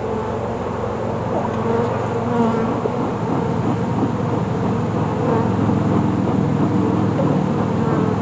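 Honeybees buzzing around an opened hive, a dense steady hum from many bees close by.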